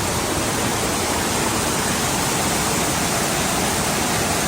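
Steady, loud rushing of water, an even roar of floodwater or pouring rain with no breaks, cutting off suddenly at the very end.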